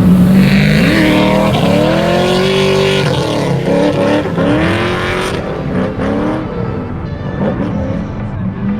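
A drift car on track with its engine revving up and down several times, with tyre squeal.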